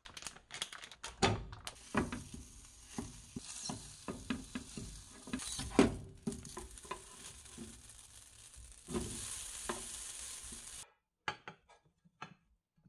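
Strips of gimbap ham sizzling as they fry in a nonstick pan, with a spatula repeatedly tapping and scraping the pan as it turns them. The sizzle cuts off abruptly about two seconds before the end, and a few light knocks follow.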